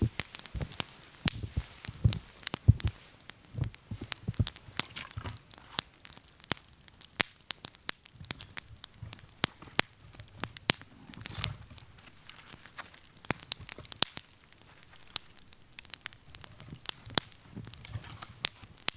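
Wood campfire crackling, with many sharp, irregular pops and snaps, more frequent near the start and end and sparser in the middle.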